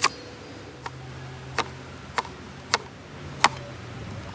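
A series of six sharp knocks or clicks at an uneven pace, roughly half a second to a second apart, over a faint low hum.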